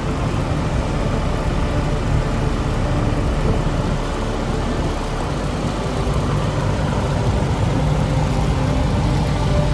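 Heavy road-work machinery engine running steadily with a low rumble.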